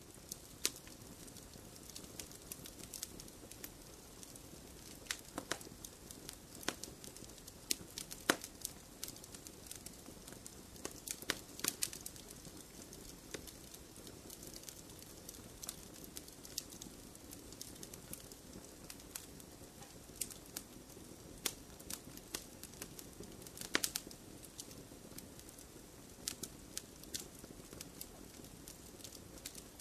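Wood fire burning in a fireplace: irregular sharp crackles and pops over a steady soft hiss of flames.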